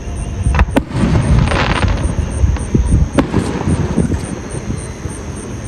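Fireworks going off: two sharp bangs about half a second in and another a little after three seconds, with a burst of crackling in between, over a low rumble.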